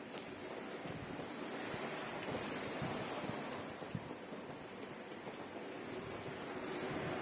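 Steady rain falling with some wind noise, an even rushing hiss that swells gently a couple of seconds in and again near the end.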